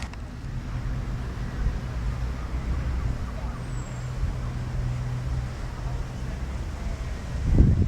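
Road traffic: a low, steady engine rumble, with a thump near the end.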